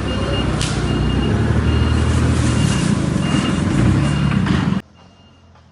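A vehicle's reversing alarm beeping about twice a second over a running diesel engine, as the truck is offloaded. The sound cuts off abruptly near the end.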